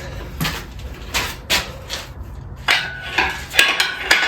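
A run of sharp clanks and clinks from unhooking the lifting chain and folding up an engine hoist, coming faster in the second half. A faint steady ring sets in near the end.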